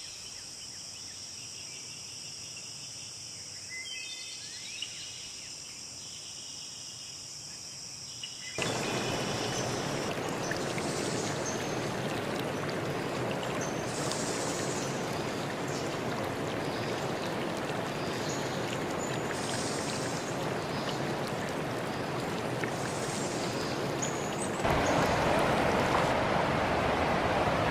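Forest ambience of insects droning in a steady high note, with birds chirping. About eight seconds in it cuts abruptly to a running stream, birds still calling over it. Near the end it cuts again to the louder, fuller rush of a waterfall or rapids.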